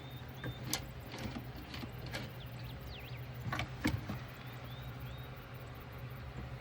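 A few sharp clicks and knocks from handling sewing clips and materials, over a steady low hum, with short faint bird chirps in the background.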